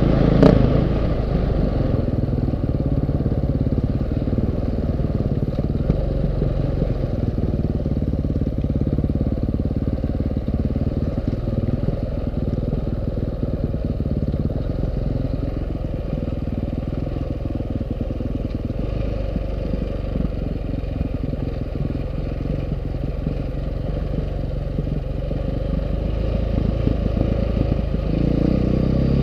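KTM 530 EXC single-cylinder four-stroke enduro motorcycle engine running while riding off-road, its note shifting gently up and down, with rumble from the trail and wind.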